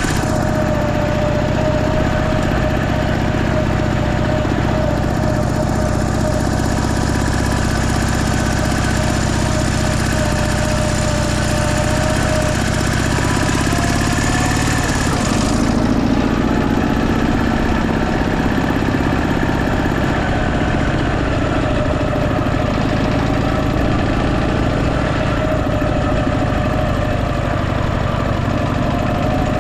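Motorcycle engine running steadily at a low, even speed, its note shifting about halfway through.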